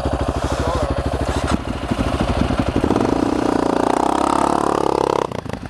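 Single-cylinder motorcycle engine idling with an even, slow thump, idling low; the note grows fuller for a couple of seconds in the second half.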